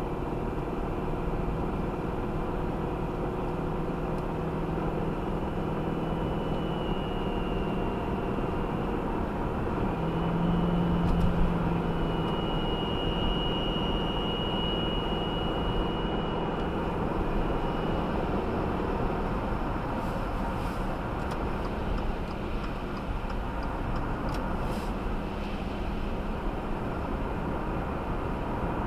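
2018 Subaru Outback's 2.5-litre flat-four running cold at low RPM, with a high-pitched whining squeal that comes and goes over the steady engine noise, strongest around the middle. The squeal appears at cold idle and light throttle and stops off the gas; the owner suspects the CVT transmission or a faulty charging system.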